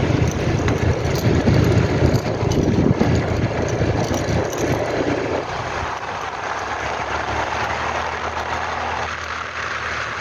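Ford Ranger 2.2 diesel pickup driving on a hilly road: steady engine drone with tyre and road noise, easing off about halfway through.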